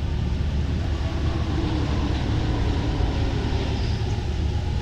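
Alstom MP 05 rubber-tyred metro train running between stations, heard from inside the train: a steady rumble of the tyres and running gear.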